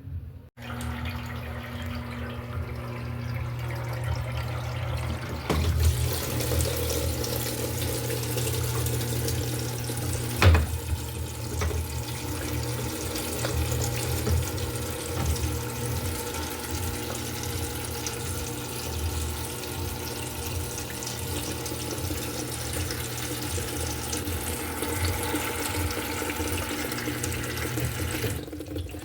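Electrolux LED14 washing machine filling, water running steadily into the tub over a low hum. The water starts suddenly about half a second in, with two short knocks a few seconds apart.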